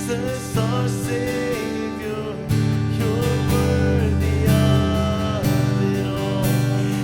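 Acoustic guitar strumming chords in a slow worship song, with a held melody line gliding between notes above it.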